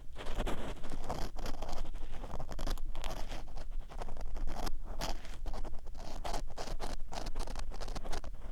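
Ear pick scraping and scratching inside the ear of a 3Dio binaural microphone: a quick, irregular run of close, rough rubbing strokes with a low rumble underneath.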